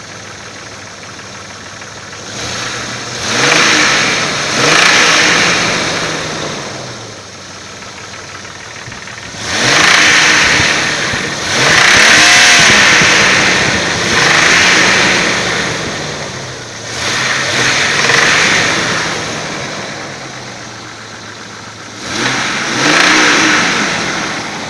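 Engine idling and blipped up in revs about seven times, each rev rising and falling back to idle within a second or two. It is being revved to bring out a knock.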